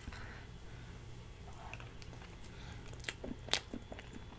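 Faint close-miked chewing of soft cheesecake, with a few small sharp clicks over a low steady hum.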